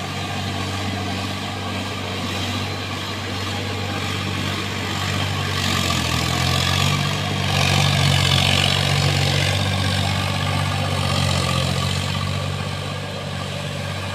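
Tractor's diesel engine running steadily, its note rising and getting louder from about six seconds in, then easing back a few seconds later.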